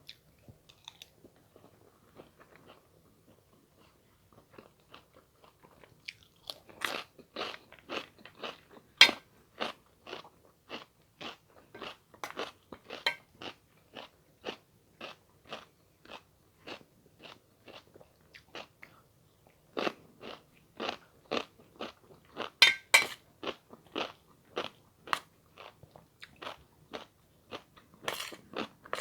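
A person chewing food close to the microphone, with short chewing strokes at about two a second starting about six seconds in.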